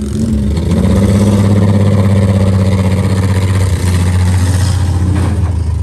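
Demolition derby cars' engines running loud and steady, a deep drone from a car close by, its note stepping up a little about a second in.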